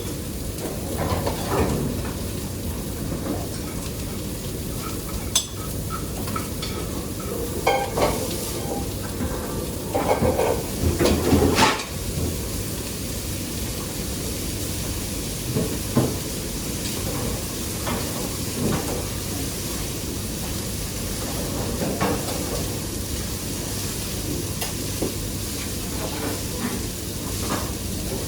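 Steady hissing kitchen noise with occasional knocks and clatters of utensils and dishes, the loudest cluster about ten to twelve seconds in.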